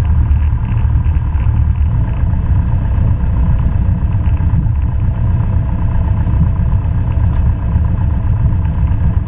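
Cessna 172 Skyhawk's piston engine and propeller running steadily on the ground, a loud even drone heard inside the cabin.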